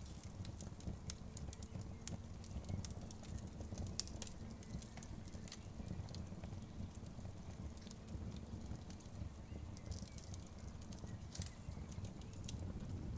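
Wood fire crackling, with frequent small irregular snaps and pops over a steady low rumble.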